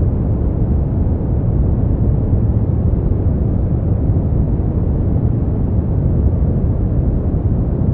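Steady sleep-aid noise track, sold as white noise, but deep and low-pitched with almost no high end, holding an even level throughout.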